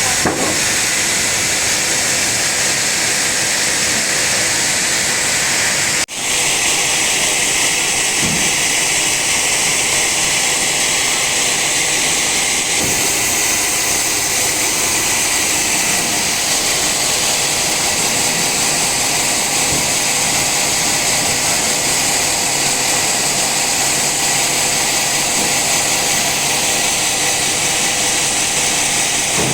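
Sawmill saw cutting through an old teak log: a loud, steady, high-pitched rush of machine cutting that drops out for an instant about six seconds in.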